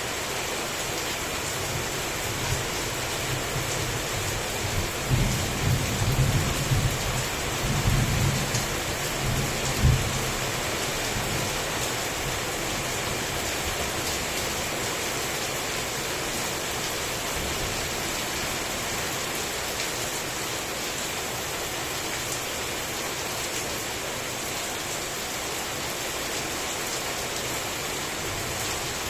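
Heavy rain falling steadily, with a long roll of thunder that builds a few seconds in and peaks in a sharp clap about ten seconds in, then dies away under the rain.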